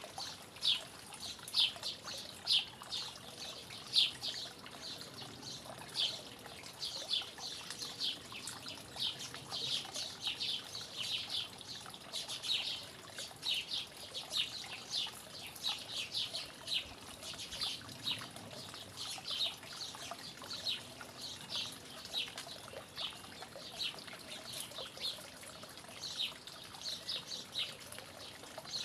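Small birds chirping in a quick run of short, high notes, over a faint steady trickle of water.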